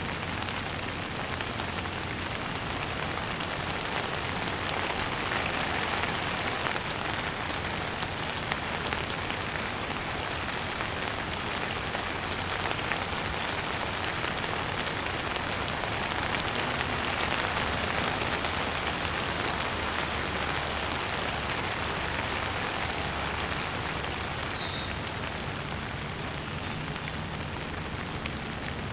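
Steady rain falling, a dense patter of drops, with one brief high bird chirp near the end.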